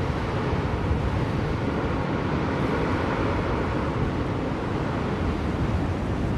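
Blizzard wind blowing in a steady, deep rush, swelling slightly about two to three seconds in.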